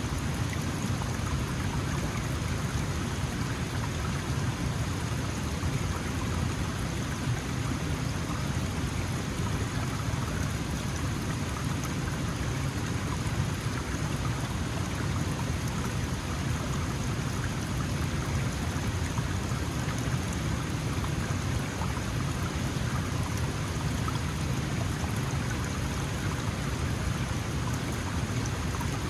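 Small mountain stream flowing steadily over rocks: an even, unbroken rush of water with a strong low rumble.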